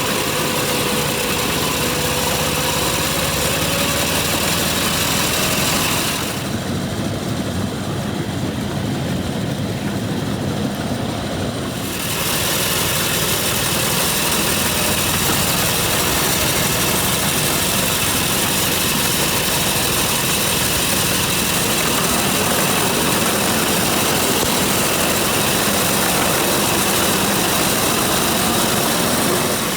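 The small petrol engine of a 7¼-inch gauge 0-6-0 locomotive running steadily. About six seconds in, the sound turns duller for several seconds, then returns.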